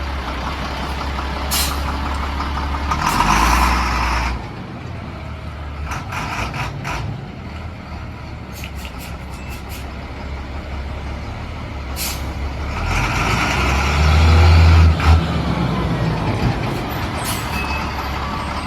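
A 2000 Peterbilt 330 dump truck's CAT diesel engine running steadily. Twice it swells into a louder stretch of a second or two, first a few seconds in and again about two-thirds of the way through, and a few sharp clicks or knocks come in between.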